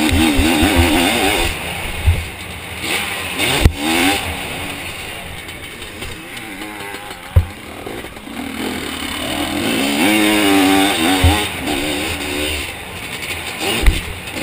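Zabel 700 two-stroke sidecar motocross engine heard on board, its revs rising and falling rapidly as the throttle is worked, with several sharp knocks from the outfit hitting bumps.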